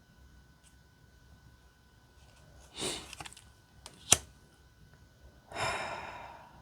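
Oracle cards being handled: a short rustle, then a sharp tap about four seconds in, then a longer swish of a card sliding off the deck that fades away.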